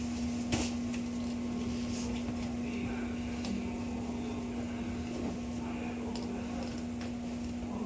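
Inside a stationary 205 series 5000 electric train car: a steady electrical hum from the car's onboard equipment, with a few faint clicks.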